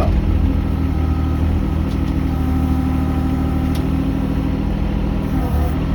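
Mini excavator engine running at a steady speed.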